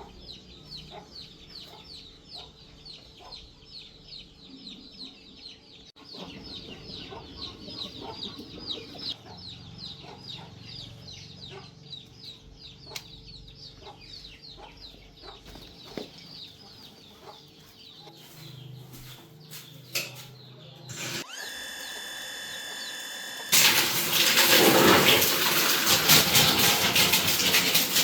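Chickens cheeping rapidly and repeatedly. About 21 seconds in, the repaired booster water pump starts with a steady whine, and some two seconds later water gushes out loudly as it pumps.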